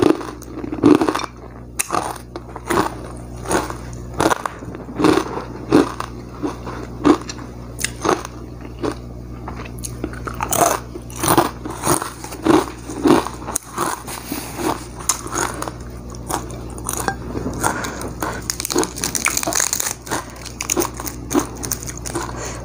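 A person chewing fried duck close to a clip-on microphone: wet, crunching chews about once a second, with mouth and lip smacks.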